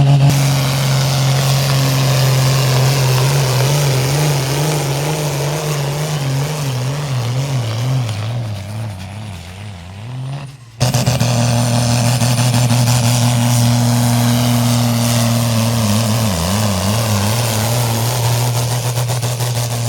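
Modified pulling-tractor engine running hard under the load of the weight sledge; its pitch wavers and sags as it slows and fades away about eight to ten seconds in. It cuts off abruptly and is replaced by an engine held steady at high revs, with a brief wobble in pitch later on.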